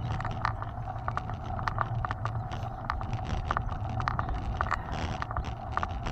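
Mountain bike rolling along a trail: irregular rattles and clicks over a steady low rumble of wind on the microphone.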